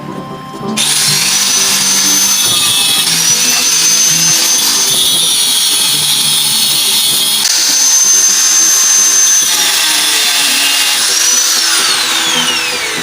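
Washing-machine motor driving a grinding wheel that is grinding a saw's steel teeth: a harsh, high grinding hiss with a whine that starts abruptly about a second in, shifts in pitch as the steel is pressed, and falls away near the end.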